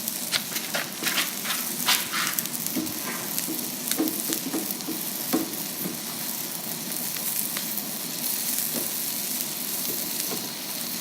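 Shake-and-bake coated chicken pieces frying in a pan, a steady sizzle with scattered crackles and pops. The pops are thickest in the first half.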